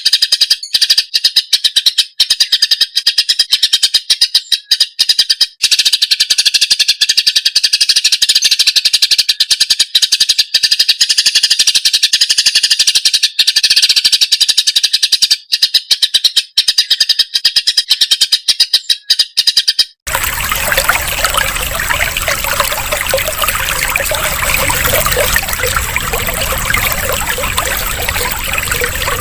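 Cucak ijo (green leafbird) singing a loud, rapid, chattering song with many sharp clicks. About two-thirds of the way through it cuts off abruptly and gives way to steadily trickling water.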